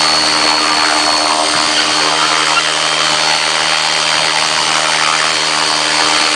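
600-size radio-controlled helicopter flying, its motor and rotor running at a steady speed with a thin high-pitched whine over the rotor noise.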